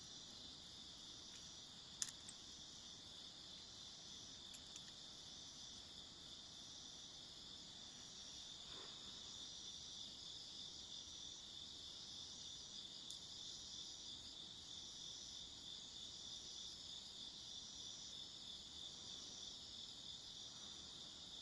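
A faint chorus of singing insects: a steady high trill with shorter repeated chirps layered over it. A sharp click sounds about two seconds in.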